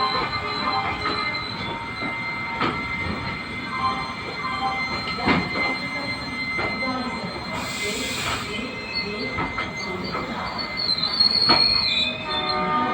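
LHB coach wheels squealing on the rails, with steady high-pitched screeches and a run of clicks over rail joints and points. A brief hiss comes about eight seconds in, and the squeal rises in pitch near the end.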